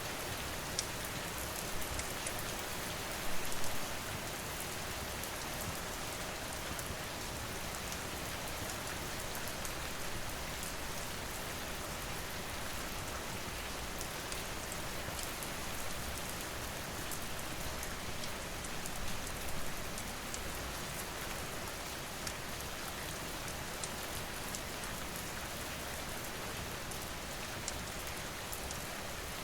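Steady rain falling, with scattered sharp crackles and pops from a wood fire mixed in. There are brief louder spells about three seconds in and again past the middle.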